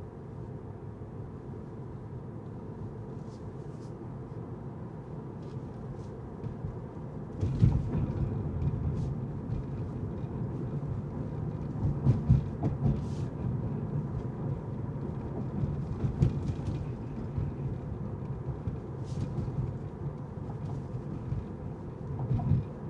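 Car road noise while driving: a steady low rumble of tyres and engine that grows louder about a third of the way in, with occasional short knocks.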